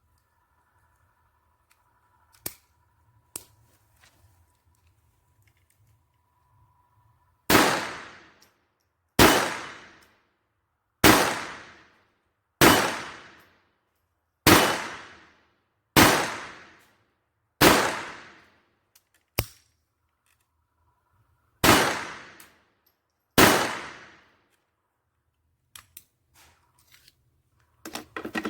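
Taurus PT-22 .22LR pistol firing nine single shots of Winchester Hyper Speed HP high-velocity cartridges, about one every two seconds. Each shot rings away over about a second. There is a pause with a faint click after the seventh shot, then two more shots.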